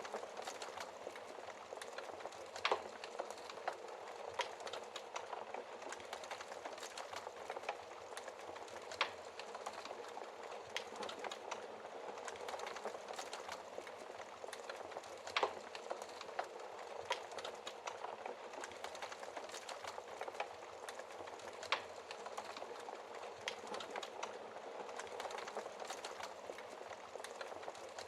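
Burning wood in a fireplace crackling steadily with many small snaps and a handful of louder pops.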